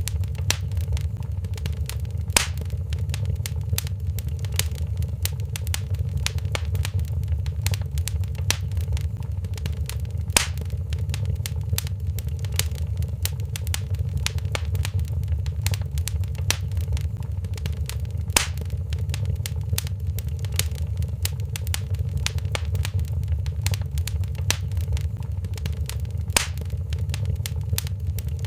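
Fireplace fire crackling: a steady low rumble of burning with constant small crackles and a sharper pop about every eight seconds.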